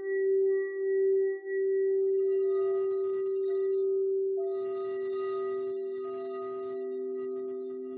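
Singing bowls ringing with long sustained tones: the main tone wobbles in loudness for the first second or so, then holds steady, and a second, lower bowl tone joins about halfway through.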